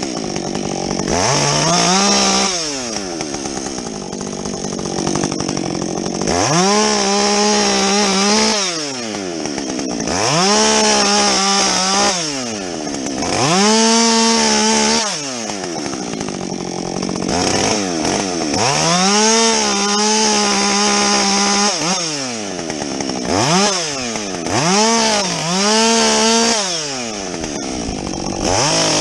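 Husqvarna 562XP two-stroke chainsaw with a modified muffler, repeatedly revved up to full throttle and let drop back toward idle, several times, as it bucks a felled tree into lengths.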